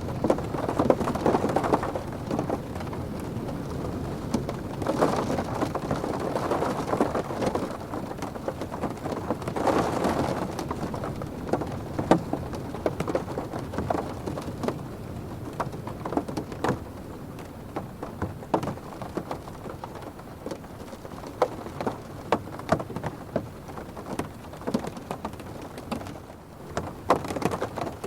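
Rain hitting a car's roof and windows, heard from inside the cabin: a steady patter with many sharp individual drop ticks, swelling louder in gusts about a second in, twice more in the first half, and again near the end.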